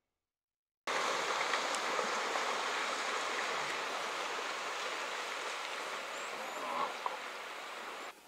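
Steady rush and splash of water as a herd of African buffalo runs through a shallow river. It starts abruptly about a second in and drops away sharply near the end.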